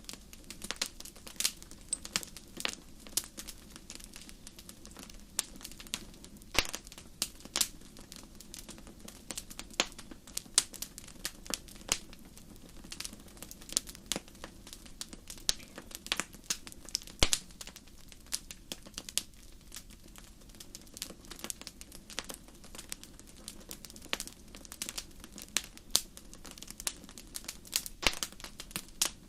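Wood fire crackling: irregular pops and snaps, several a second, over a steady low rush.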